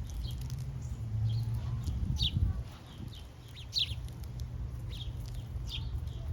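Small birds chirping: short, downward-sliding chirps two or three times a second, over a steady low rumble.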